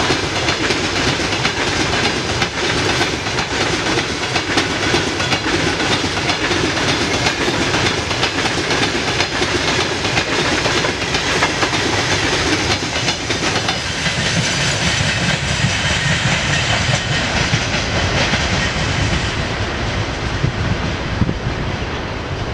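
Freight train of open gondola wagons rolling past, its steel wheels clattering over the rail joints in a steady rush of rail noise. The low part of the sound thins out after about fourteen seconds as the end of the train draws away.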